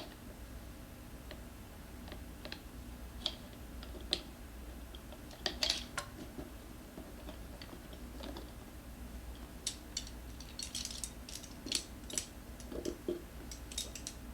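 Metal tools clicking and tapping against a scooter wheel rim as a tight tire bead is levered on with a tire spoon: scattered light clicks, coming thicker near the end, over a steady low hum.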